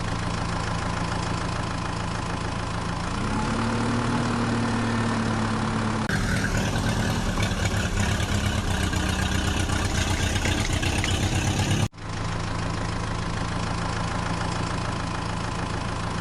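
Heavy vehicle engine idling steadily, rising slightly in pitch about three seconds in. It cuts abruptly to a different engine with a faster, pulsing chug at about six seconds, then cuts back to the first idle at about twelve seconds.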